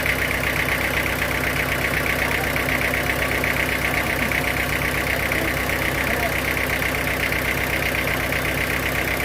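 Sawmill machinery running steadily: an engine-like hum with a fast, even pulsing that holds unchanged throughout.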